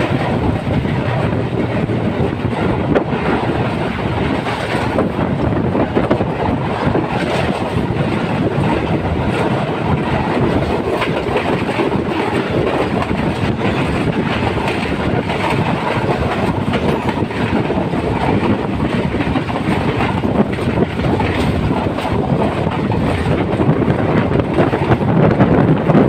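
Passenger train running, the steady noise of its wheels on the rails heard from aboard, growing a little louder near the end.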